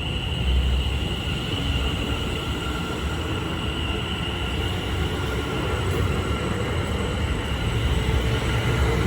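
Greater Anglia Class 720 Aventra electric multiple unit pulling out of the station: a steady low rumble of the train with a steady high electric whine above it.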